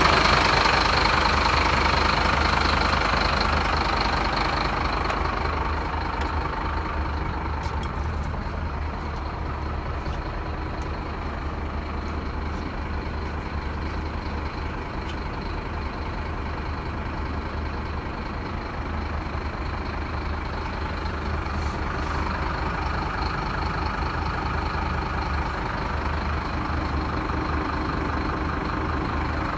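Scania P270 truck's diesel engine idling steadily, easing off a little over the first few seconds.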